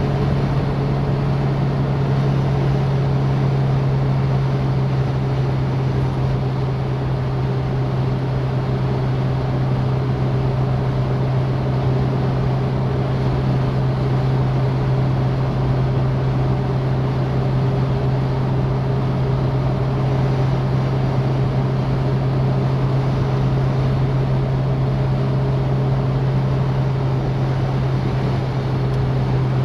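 Citroën DS driving at a steady speed: its four-cylinder engine makes a constant low drone over steady road and wind noise.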